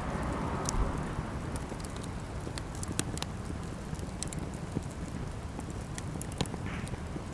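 Cedar offcuts burning in a campfire, crackling with irregular sharp pops over a steady low rumble.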